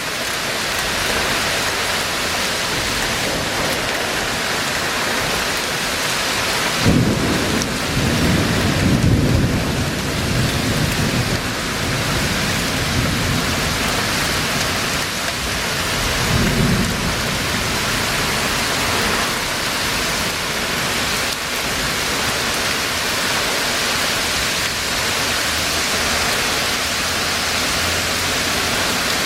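Heavy rain pouring steadily in a thunderstorm. A sharp crack of thunder breaks about a quarter of the way in and rumbles for several seconds, with a shorter rumble about ten seconds later.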